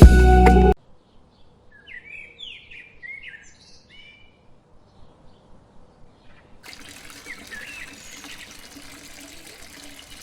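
Music cuts off abruptly within the first second. Small birds then chirp in a quick run of short, sliding calls. About two-thirds of the way through, a steady trickle of running water comes in, with a few faint bird calls over it.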